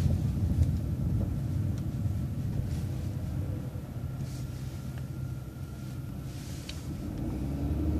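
City transit bus driving along a downtown street: a steady low engine and road rumble that eases about halfway through and builds again near the end.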